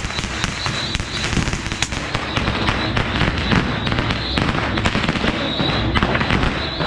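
A dense, continuous barrage of bottle rockets and firecrackers going off, sharp pops and crackles coming many times a second. Short high whistles recur every second or so among the bangs.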